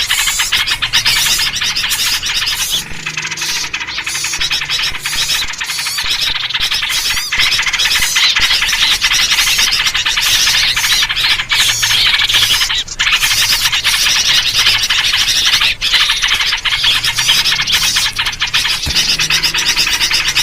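A dense, unbroken chorus of excited small-bird chirps and chatter, a 'noisy birds' luring mix that features yellow-vented bulbul (trucuk) calls. It is the kind of commotion played to draw wild birds in.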